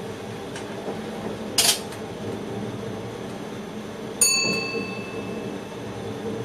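Train running with a steady rumble heard inside the driver's cab. A brief hiss comes about one and a half seconds in, and a single bell-like chime rings out a little past four seconds, fading over about a second.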